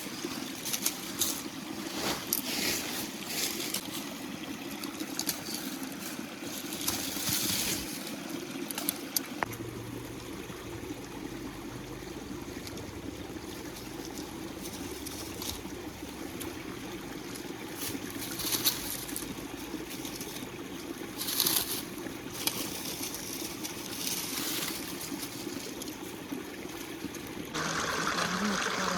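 Steady flow of a river, with scattered sharp clicks over it. A louder noise joins about a second and a half before the end.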